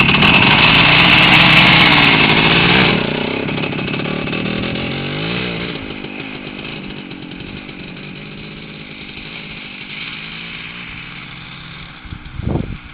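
Voskhod 3M motorcycle's two-stroke single-cylinder engine revving hard for about three seconds, then dropping back with its pitch rising and falling and growing steadily fainter. A brief thump near the end.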